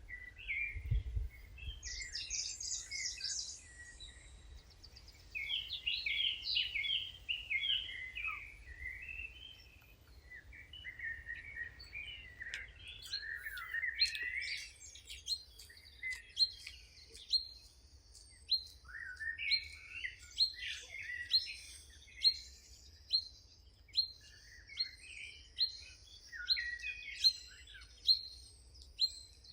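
Several songbirds singing, with warbled and chirped phrases overlapping. From about halfway through, one bird repeats a short, high, falling note roughly once a second.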